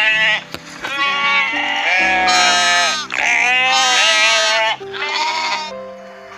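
Sheep bleating: a string of about five loud, quavering baas, some long and overlapping, over steady background music.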